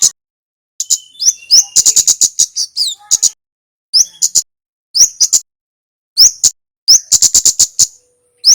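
A male kemade (kemlade) songbird calling in quick bursts of very high, sharp chips, several in rapid succession. Short rising notes are mixed in, and there are brief pauses between bursts.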